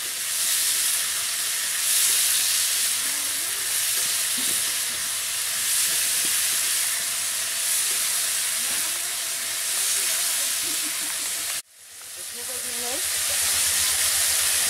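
Chopped vegetables sizzling in mustard oil in a metal kadai, stirred with a metal spatula: a steady frying hiss. The sound cuts out suddenly for a moment near the end, then the sizzle comes back.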